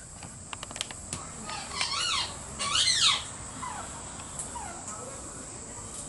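A bird calling: a quick run of shrill whistled notes that rise and fall, loudest about halfway through, then a few fainter falling notes. A few light clicks come first.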